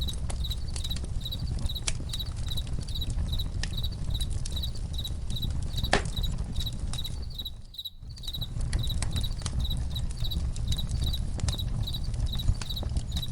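Crickets chirping steadily in an even rhythm of about two to three chirps a second over a crackling campfire, with a low rumble and scattered pops, one sharper crack near the middle. The fire bed drops out briefly about two-thirds of the way through while the chirping carries on.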